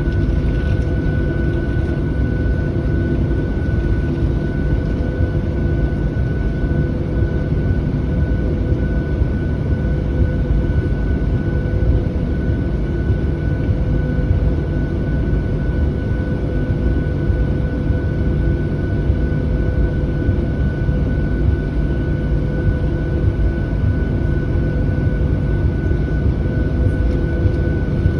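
Steady cabin noise inside a Boeing 737-700 on the ground before takeoff: a low rumble with a thin, steady whine over it.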